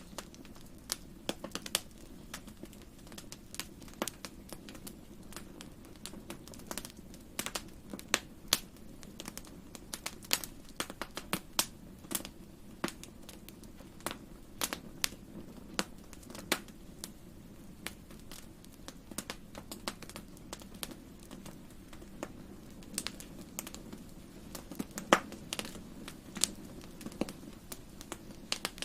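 Wood fire crackling in a fireplace: irregular sharp pops and snaps, sometimes several close together, over a steady low rumble of the burning fire.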